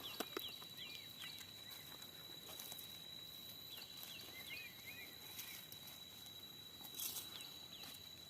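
Faint outdoor ambience: small birds give short, repeated chirps over a steady high-pitched drone, with a few brief rustles or scrapes, the loudest about seven seconds in.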